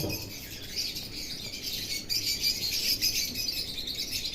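Many small caged birds chirping and twittering together in a continuous high-pitched chatter.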